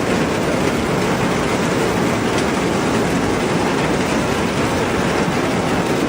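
Steady rushing noise of heavy water, even and unbroken, strongest in the low range, with no rhythm.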